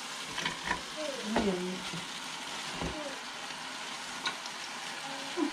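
Food sizzling steadily in a frying pan on the stove, with a few light clicks.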